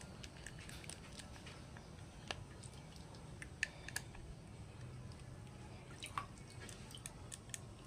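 Scattered faint clicks and light taps of small parts and tools being handled, over a low steady hum.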